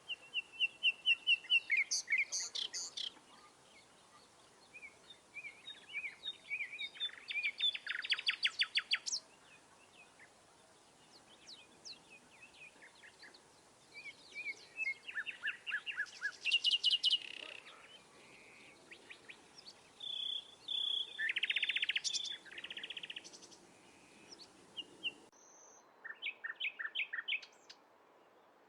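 Songbirds singing and calling in bursts of rapid chirps and trills, over a steady background hiss. Near the end the hiss cuts off and only a few short chirps follow.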